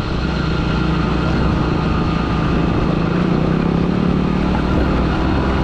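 A 125 cc motorcycle engine running at a steady cruising speed, heard on board while riding, its note holding nearly constant.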